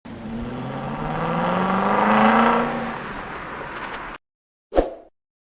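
Honda Accord 2.2 i-CTDi four-cylinder turbo diesel engine revving up, its note rising to a peak about two seconds in and then easing off, before cutting off abruptly. A single short thump follows near the end.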